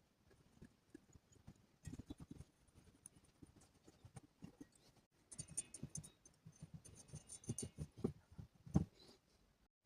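Faint, irregular clicks, taps and scrapes of small hard objects being handled, growing busier after about five seconds.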